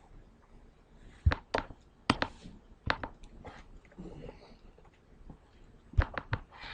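A string of sharp, irregular taps and clicks, about eight in all, coming in small clusters with a pause in the middle, alongside faint murmuring in a small room.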